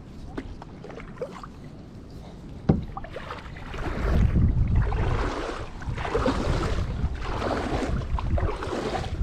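Water splashing and sloshing around a kayak, swelling and fading several times in the second half, with one sharp knock about three seconds in and low wind rumble on the microphone.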